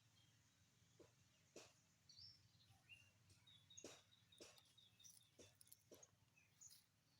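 Faint birds chirping, with a quick run of short repeated high notes near the middle, over scattered soft clicks.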